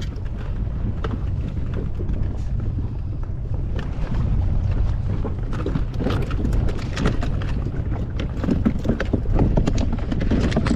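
Wind buffeting the microphone and water moving against a small inflatable boat, a steady low rumble with irregular knocks and taps that grow busier about halfway through.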